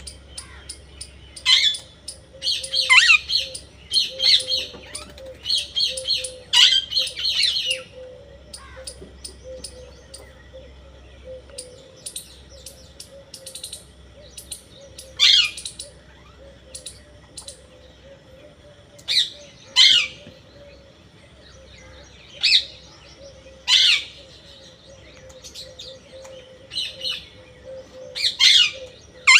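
A parrot calling: a quick run of shrill chirping calls over the first several seconds, then single sharp calls every few seconds, each sweeping down in pitch.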